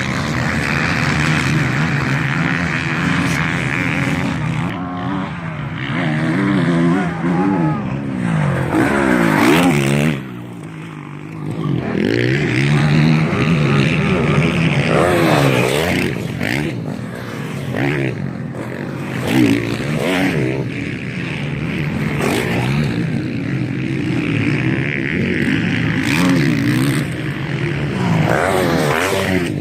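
MX1 motocross bikes racing on the track, several engines revving up and falling back again and again as riders shift and accelerate, with a brief lull about ten seconds in.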